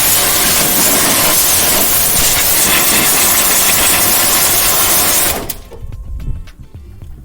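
Pressure washer jet spraying water with a loud, steady hiss while washing machine parts are cleaned; it cuts off suddenly about five seconds in.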